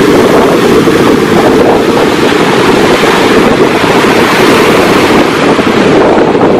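Sea surf washing in under strong wind, with heavy wind buffeting on the microphone: a loud, steady rushing roar.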